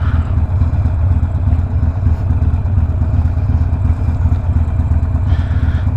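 Harley-Davidson Sportster Iron 1200's air-cooled V-twin engine running steadily through a Two Brothers 2-into-1 exhaust with a low, even exhaust note and no revving.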